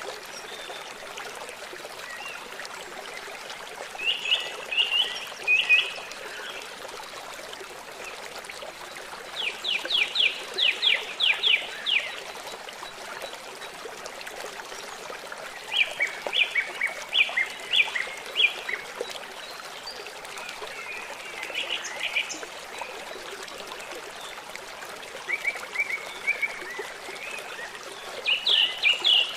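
A stream running steadily, with short bursts of rapid, repeated chirping bird song every few seconds.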